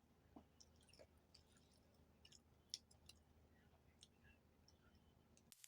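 Near silence: room tone with a few faint scattered clicks, one a little louder about three seconds in.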